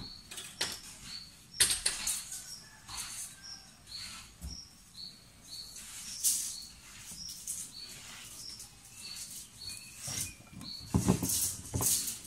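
A small bird chirping over and over: short high notes alternating between two pitches, about two a second. Soft rustles of handling run under it, with a few louder knocks near the end.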